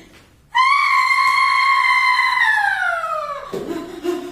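A woman's long, high-pitched scream, held steady for about two seconds and then sliding down in pitch. It gives way to lower, broken voice sounds.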